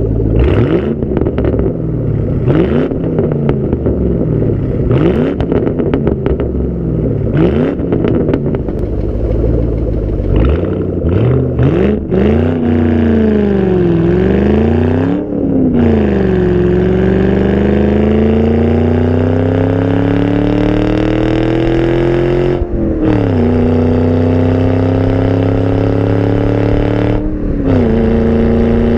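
Ford Mustang GT V8 exhaust. For about the first twelve seconds the engine is blipped again and again, with sharp cracks between the revs. It then pulls up steadily in pitch, drops briefly twice as gears change, and settles at a steady run.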